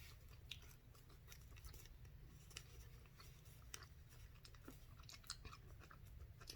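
Faint chewing of a stick of gum: soft, irregular clicks and smacks from the mouth over a low steady hum.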